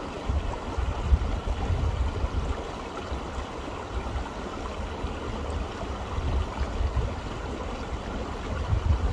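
Steady rush of running water with an uneven low rumble underneath.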